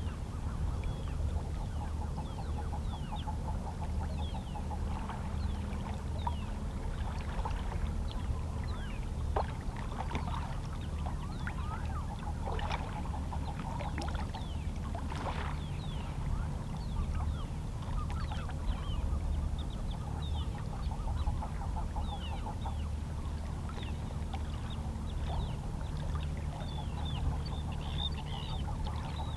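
Small, calm sea waves lapping against shoreline rocks, with seabirds calling in many short, high cries throughout, over a steady low hum.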